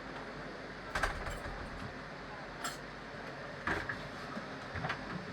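Steady background noise with a few scattered clicks and knocks, about one a second at most.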